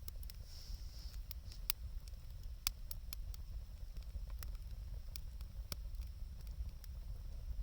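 Wood fire of burning lumber crackling, with irregular sharp pops scattered through it over a low steady rumble.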